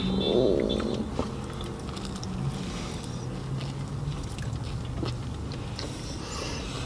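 Close-up biting and chewing of a flaky blueberry cream cheese Danish, with small crackly clicks, over a low steady hum.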